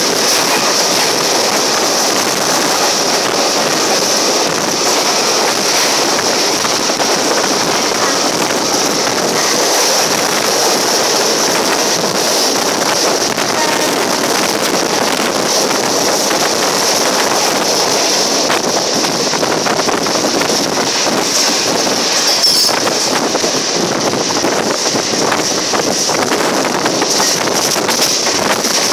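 Passenger train running at speed, heard from an open coach door or window: a steady rush of wheels on rails mixed with wind buffeting the microphone.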